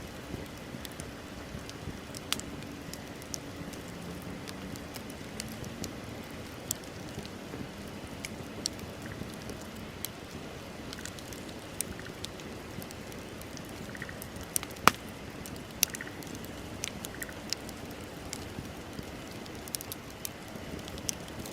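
Wood bonfire crackling: a steady hiss of burning with scattered sharp pops and snaps, the loudest about 15 seconds in.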